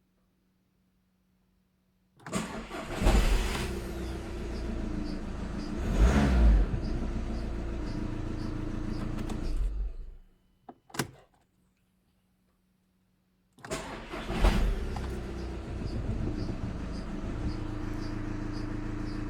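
Volkswagen Golf Mk6's 2.0 TDI four-cylinder diesel engine started twice, each time catching and settling into a steady idle, with a brief rev about six seconds in.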